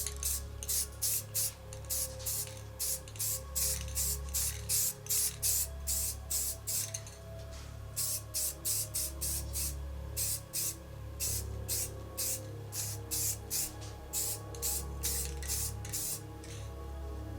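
Aerosol spray paint can sprayed in quick short bursts, about three a second, with a couple of brief pauses, misting on a light coat rather than a solid one. Background music plays underneath.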